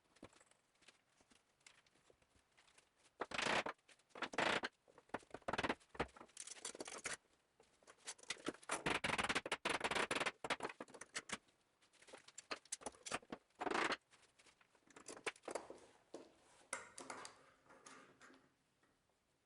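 Irregular bursts of scraping and rustling with a few sharp knocks, from hand work on the workpiece; no machine is running.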